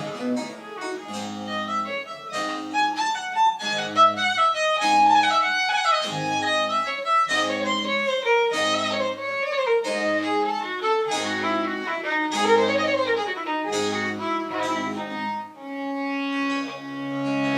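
French Baroque chamber music: a violin melody over a bass line of short, evenly repeated notes, closing near the end on a held chord.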